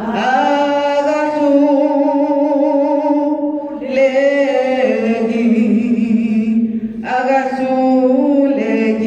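Unaccompanied singing in three phrases of long held notes with vibrato, each breaking off briefly before the next.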